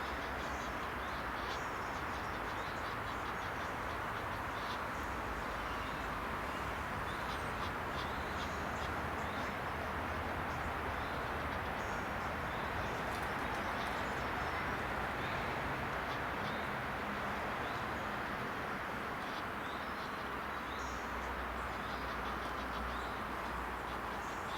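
A steady rushing background noise, with faint, scattered chirps of small birds over it.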